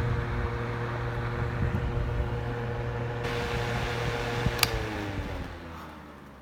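9-inch True Living box fan running with a steady hum, then a sharp switch click about two-thirds of the way in, after which the motor hum falls in pitch and fades as the fan winds down.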